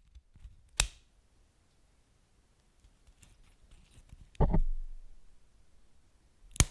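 Wood fire crackling: three sharp pops, about a second in, past the middle and near the end, the middle one the loudest and slowest to die away, with faint crackles between.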